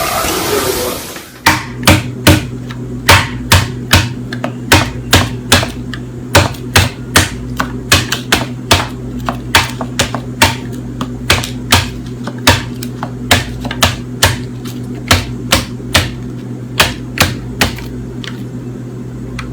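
A rushing noise cuts off about a second in, then a long run of sharp taps or knocks on a hard surface, about two a second and unevenly spaced, over a steady low hum.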